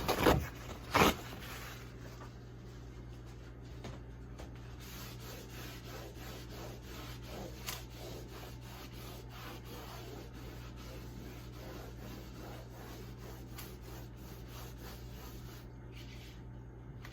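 Steady back-and-forth scrubbing of a refrigerator's side panel with a scrubbing pad and cleanser, after a couple of short knocks in the first second.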